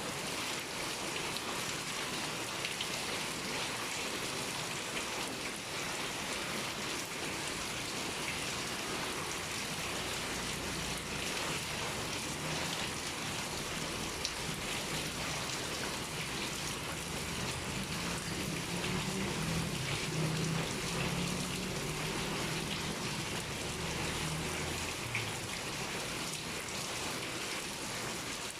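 Steady pouring rain: an even hiss of falling drops with scattered sharper drop ticks. A low hum builds from about ten seconds in and fades out a few seconds before the end.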